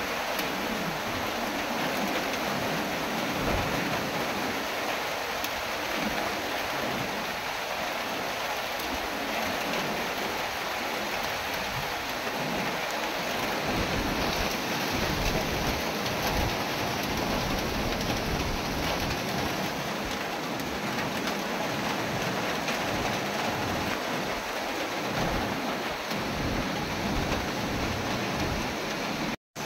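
Heavy tropical-storm rain, a steady dense hiss, with strong wind gusts rumbling in waves underneath. The sound cuts out for an instant near the end.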